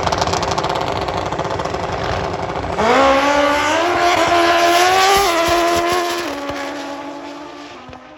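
Drag racing motorcycle engine running at full throttle down the strip. About three seconds in, a clear engine note comes through and steps up in pitch a few times. It then drops and fades away as the bike recedes.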